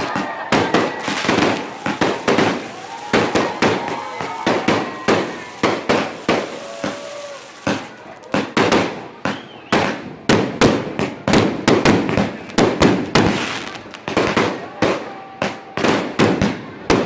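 Fireworks going off in a rapid, irregular string of sharp bangs and crackles, about two to three a second, with voices faintly audible underneath.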